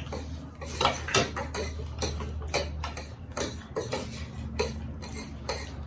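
Close-up eating sounds: irregular clicks and smacks of chewing fried chicken, with cutlery clinking on the dish, a few each second, over a low steady hum.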